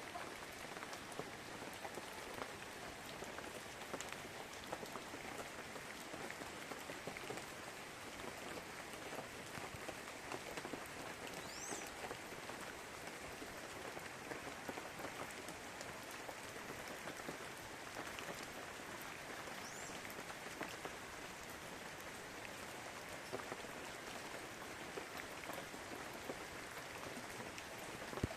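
Steady rain pattering: a dense, even patter of small drops with a soft hiss. Two brief high rising chirps stand out over it.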